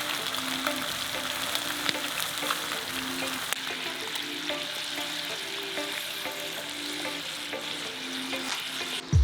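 Food sizzling and frying in a pan over a campfire, a steady crackling hiss with small pops, with a faint melody underneath. The sound cuts off abruptly near the end.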